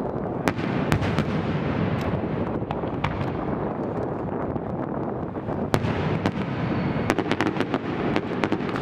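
Aerial fireworks going off: single sharp reports a second or so apart, then a quick run of crackling pops about seven seconds in, over a steady low rumble.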